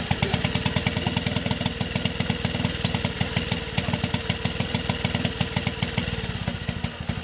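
Mercury 4–5 hp four-stroke outboard running on choke just after being pull-started, with a fast, even putter. It runs now that the intake rocker arm, which had come off its push rod and kept it from starting, is back in place.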